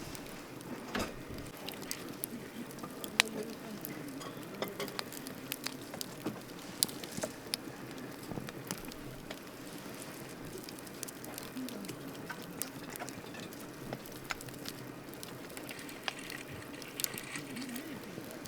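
Campfire of burning wood crackling, with a steady hiss and irregular sharp pops and snaps, the loudest about three seconds in.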